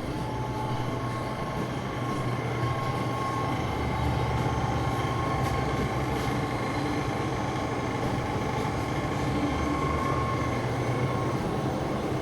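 Steady low mechanical hum with faint high whines over it, and a few light clicks around the middle.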